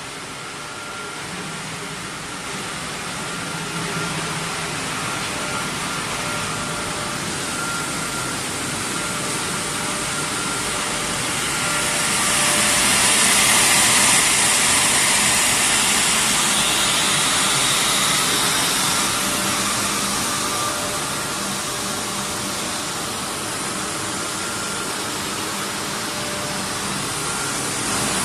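Vertical automatic glass washing machine running: a steady hiss with a faint whine, which swells louder and brighter about halfway through for several seconds before settling back.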